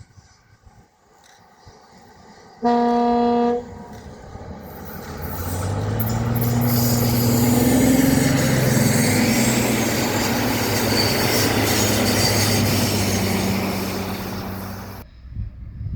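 Train horn giving one blast of about a second. Then a train comes up and passes close by, loud with a low engine drone and rolling noise, and the sound cuts off suddenly near the end.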